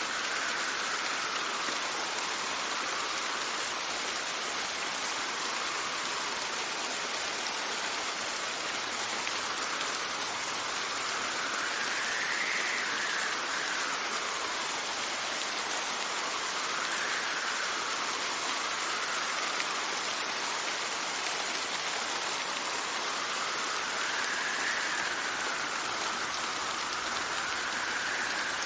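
Steady rain with wind whistling over it. The whistle's pitch rises and falls slowly as the gusts come and go.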